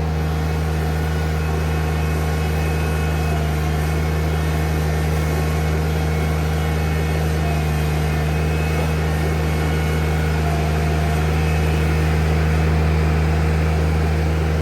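New Holland TZ22 compact tractor's small three-cylinder diesel engine running at a steady speed, with a constant low hum.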